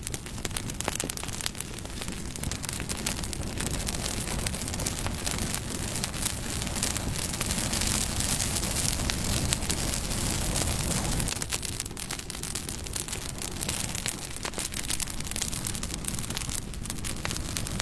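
Wood campfire burning: a steady rushing hiss of flames with dense crackles and pops from the burning wood. It grows louder through the middle, then drops back suddenly a little past halfway.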